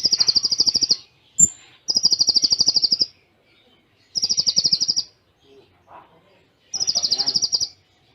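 Konin (kolibri ninja sunbird) master song: four rapid 'tembakan' bursts of about a second each, every one a fast, even, high trill, with short gaps between them, in the cililin-style fill. A short sharp tick comes about a second and a half in.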